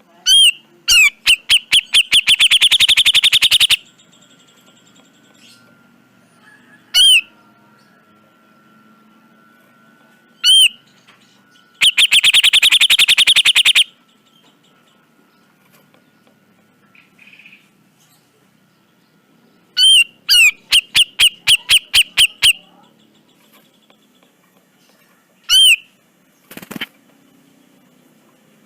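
Grey-cheeked bulbul (cucak jenggot) calling loudly with sharp, harsh notes. Three times they run together into fast chattering trills about two seconds long, with single notes in between.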